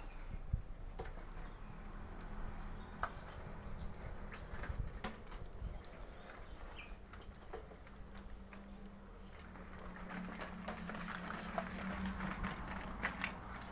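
Scattered light taps and clicks with a faint short chirp, small birds in an aviary, over a low steady hum that grows stronger in the second half.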